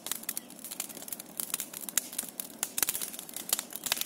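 Large wood bonfire crackling, with many irregular sharp snaps and pops.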